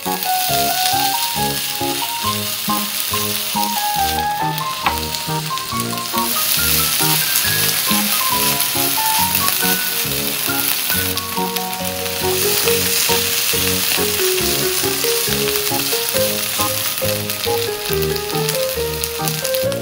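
Shredded potato and bacon sizzling in hot oil in a frying pan, a dense hiss that starts as they hit the pan and eases briefly twice as the strands are spread out. A light background music melody plays along with it.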